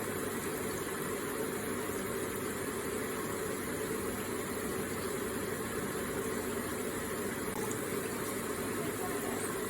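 Electric water feature running, its water trickling and splashing in a steady, even wash.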